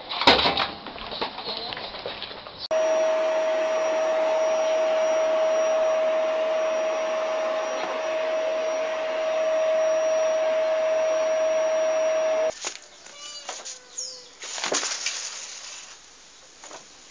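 A small motor running steadily, a continuous whir with one constant hum, that cuts off suddenly; it is bracketed by quieter rustling before and a few scattered knocks after.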